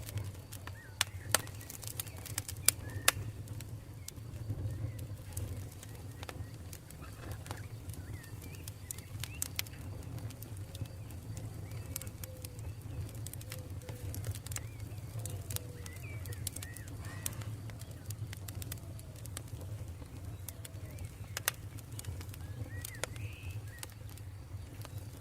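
Campfire crackling and popping over a steady low rumble, with the sharpest pops in the first few seconds. Birds call now and then in the background, short chirping and cooing notes.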